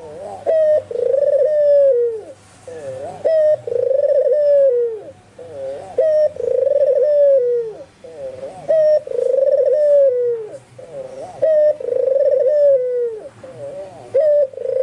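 Albino ringed turtle dove (white puter) cooing over and over: each phrase a short note followed by a long coo that falls in pitch, repeating about every two and a half seconds.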